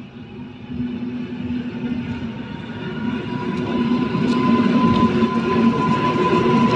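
Electric multiple-unit passenger train running past close by along the platform, its wheels rumbling on the rails. It grows steadily louder as the cars come alongside, with a low hum and a steady high whine throughout.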